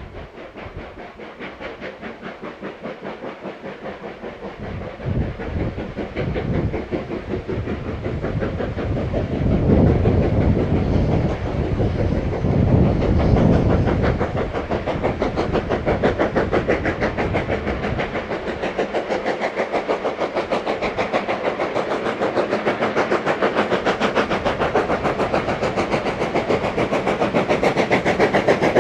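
Steam locomotive working a train, its exhaust beats coming in a quick, even rhythm and growing steadily louder as it approaches.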